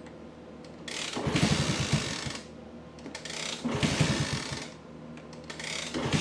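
Honda C200's small pushrod single-cylinder engine being kick-started three times, a couple of seconds apart. Each kick turns it over briefly with quick pulses, and it does not keep running while the air-fuel mixture screw is being adjusted.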